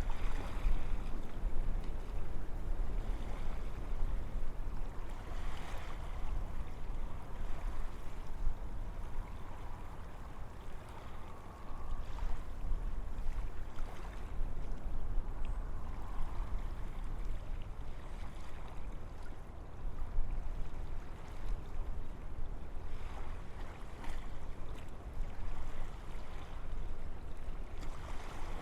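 Wind blowing through forest trees, a steady noise with a low rumble that swells and eases in soft gusts every few seconds.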